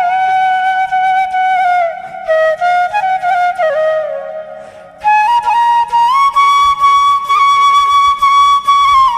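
Background music: a solo flute melody of long held notes with slides between them, over a faint low drone. It fades briefly near the middle, then comes back on higher held notes.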